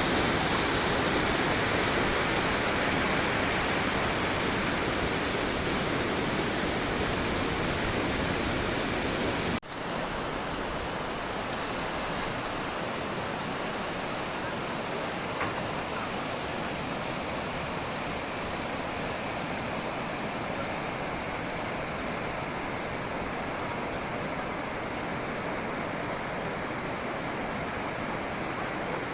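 Steady rushing water. About ten seconds in it cuts abruptly to a softer, duller rush that stays steady.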